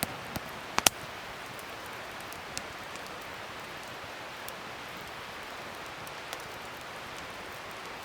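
Wood fire burning with a steady hiss and scattered sharp crackles and pops, the loudest a quick pair about a second in.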